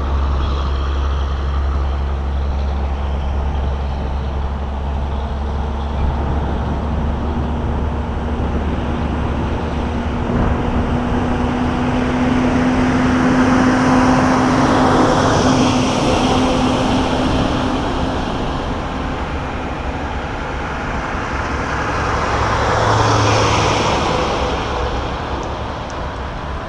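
Semi trucks driving past one after another, a steady engine hum under the noise of engines and tyres that swells as trucks pass close, once about halfway and again near the end.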